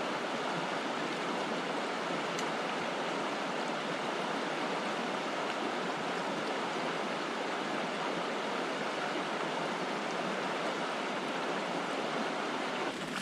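Rushing water of a brook: a steady, unbroken noise of running water that drops off suddenly near the end.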